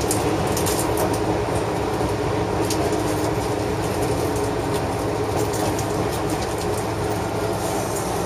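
Electric train running at speed, heard from inside the passenger car: a steady rumble of wheels and running gear, with scattered light clicks.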